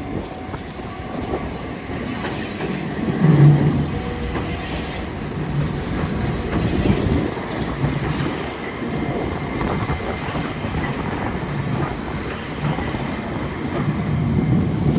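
An Enoshima Electric Railway (Enoden) train passing, its wheels clacking over the rail joints in a run of low, uneven beats.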